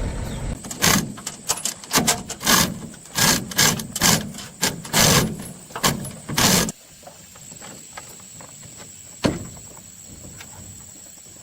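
A run of sharp knocks and scrapes, about one or two a second, that stops suddenly about two thirds of the way through, with one more knock near the end.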